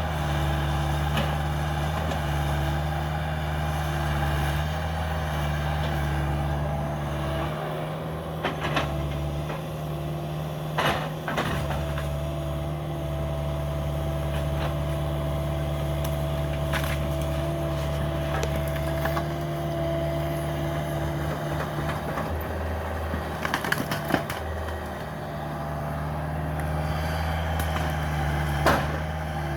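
Cat 305 mini excavator's diesel engine running steadily, with wood cracking and splintering a handful of times as the house is torn apart.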